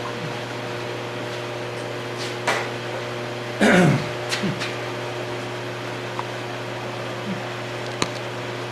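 Hydraulic press running with a steady hum while it crushes a cast-metal toy semi-truck. A few sharp cracks and creaks come from the metal giving way, the loudest about three and a half seconds in, with a final click near the end.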